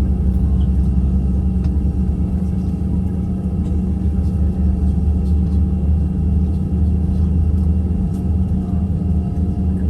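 Steady low rumble of a jet airliner's cabin noise: engines and airflow heard from inside the passenger cabin, with a constant low hum.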